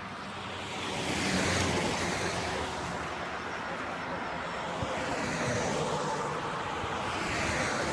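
Road traffic: vehicles passing by, the noise swelling about a second in and again near the end.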